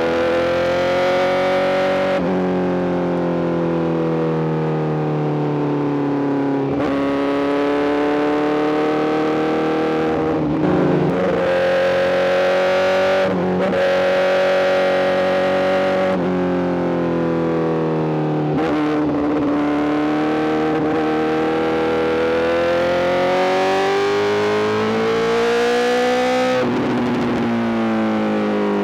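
Honda CBR1000RR-R SP inline-four engine through an Arrow GP full exhaust system under way, its pitch climbing and falling in long sweeps, with sudden breaks every few seconds where it shifts gear.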